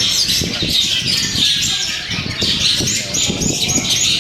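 Several caged songbirds singing at once, a dense run of fast chirps and short whistled notes overlapping without a break, over a low background noise.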